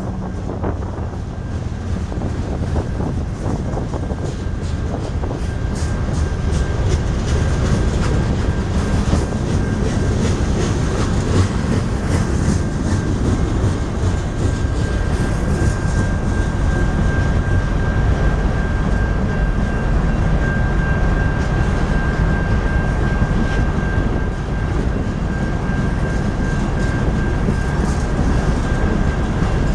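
Manifest freight train rolling past: steady rumble and clatter of the wheels on the rails. A thin, steady high squeal comes in after about six seconds and carries on.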